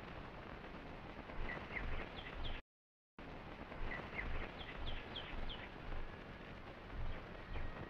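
Faint bird chirps: two groups of short, quick calls, each group climbing in pitch, over the steady hiss and rumble of an old optical film soundtrack. The sound drops out completely for about half a second between the two groups.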